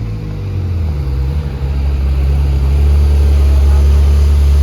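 A car engine running with a deep, steady exhaust rumble that gets louder about a second and a half in, then holds.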